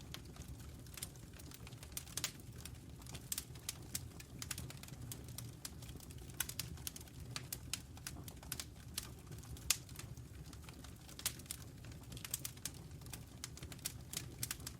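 Wood fire crackling in a fireplace: irregular sharp snaps and pops, several a second, over a steady low rumble of flame.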